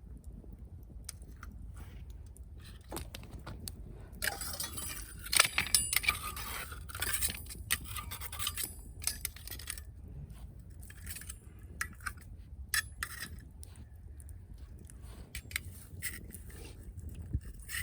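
Dry firewood burning in a campfire, crackling with scattered sharp pops and a denser stretch of crackling and clattering about four to nine seconds in.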